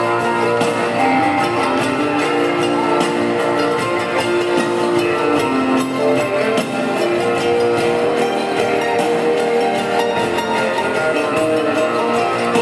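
Live band playing an instrumental passage between verses: guitars with drums and percussion, steady and loud, no singing.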